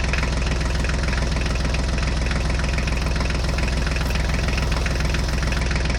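Tractor engine idling steadily, with a fast, even low chug.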